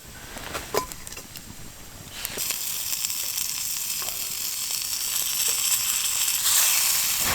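A raw burger patty hitting a hot pan and sizzling: a few small clinks, then a loud frying sizzle that starts suddenly about two seconds in and grows stronger.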